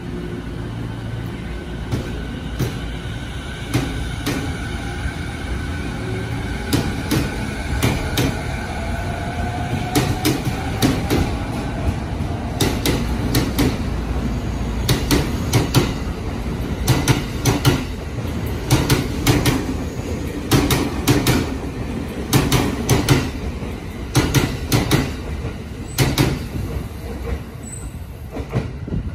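E217-series electric commuter train pulling away from the platform. The traction motors' whine rises steadily in pitch as it gathers speed, then the wheels click over rail joints in quick clusters as the cars pass.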